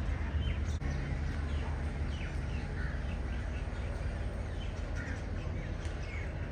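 Short bird calls, several scattered chirps, over a steady low rumble.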